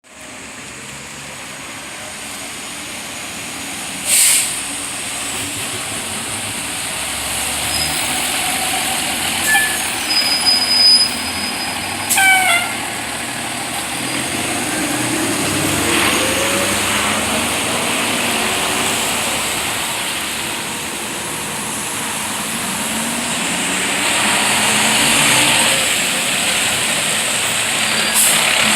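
Fire apparatus and an ambulance driving past, diesel engines running and rising in pitch as they accelerate away, with short air-brake hisses twice in the first half.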